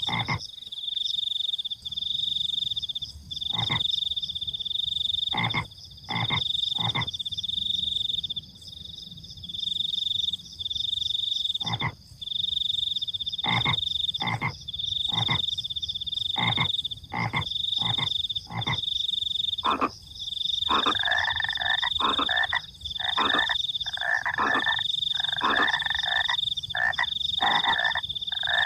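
Frogs croaking in short single calls over a continuous high-pitched trilling of crickets, broken by brief gaps every second or two. About two-thirds of the way in, a louder, rougher frog call joins and repeats roughly once a second.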